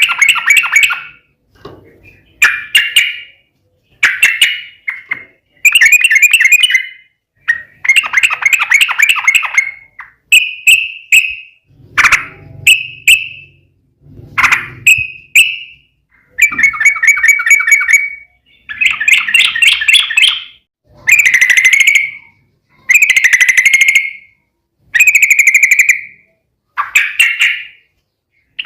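Yellow-vented bulbul (trucukan) singing a long series of rapid, bubbly chattering phrases, one after another every second or two with short gaps between.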